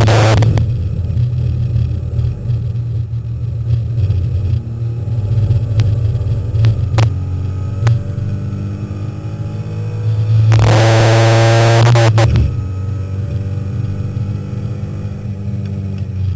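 Alpine A310 race car's engine heard from inside the cabin while lapping a circuit, a steady low drone. About ten seconds in the revs climb in a loud spell that cuts off sharply a second and a half later, and two sharp knocks come a little before.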